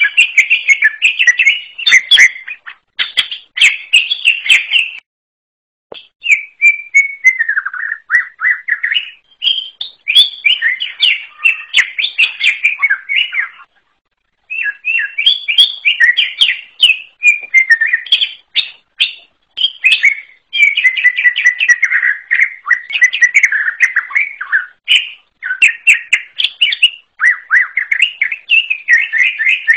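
Cucak ijo (green leafbird) singing a long, varied song of rapid chirps and whistled notes, in phrases a few seconds long separated by short pauses.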